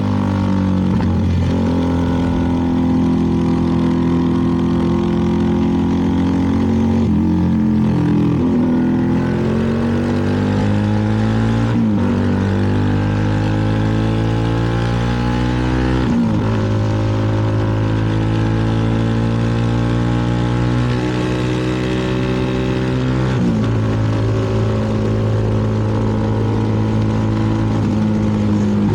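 CFMoto 300NK's single-cylinder engine running under way, its pitch climbing and dropping with throttle and gear changes, with about five sharp shifts in pitch. Steady wind and road noise runs underneath.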